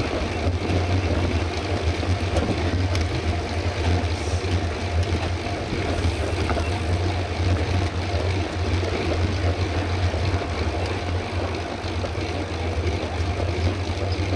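Steady wind rush over the camera microphone, with tyre and road noise, while riding a mountain bike on the road. It is an even low rumble with hiss above and no breaks.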